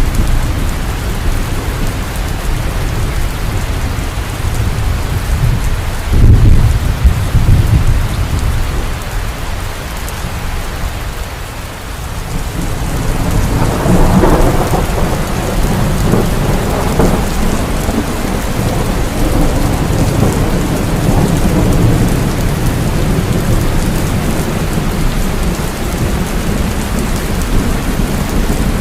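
Heavy rain falling steadily, with thunder. A loud low rumble comes about six seconds in, and a second rolling rumble builds a little before halfway and trails off.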